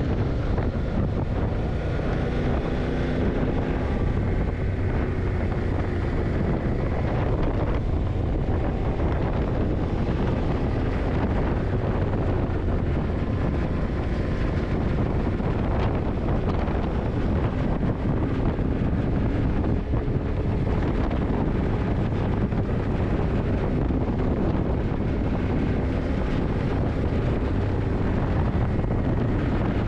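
Yamaha TDM900's parallel-twin engine running at a steady cruise, its pitch drifting gently up and down with the throttle, under heavy wind rush on the microphone.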